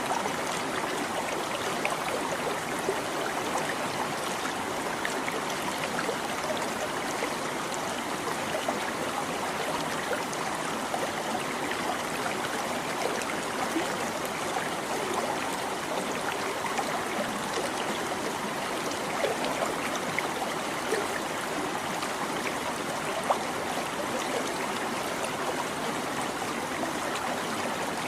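A shallow stream babbling steadily over stones, water trickling and splashing in many small gurgles.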